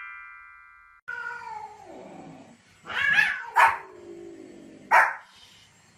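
A ringing chime fades out over the first second. Then a dog gives drawn-out, falling whining calls broken by two short, sharp barks.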